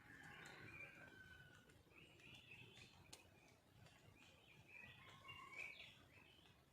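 Faint chirps and short calls of small birds over a quiet background hum.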